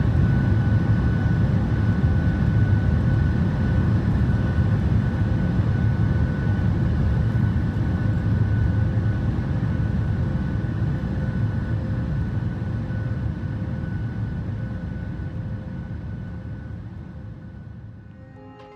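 Jet noise of a Boeing 737 MAX 8's CFM LEAP-1B engines at takeoff thrust: a steady low rumble with two faint steady whines above it, gradually fading away over the last several seconds.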